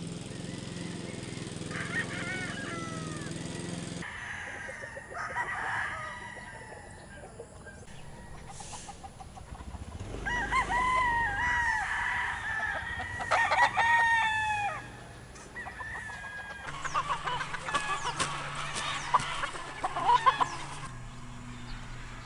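Gamecock roosters crowing, one call after another with several birds overlapping; the loudest, longest crows come in the middle, with shorter calls and some clucking around them.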